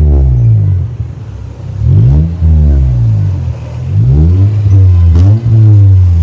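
Suzuki Cultus engine revved repeatedly through a newly fitted aftermarket exhaust, the pitch rising and falling several times.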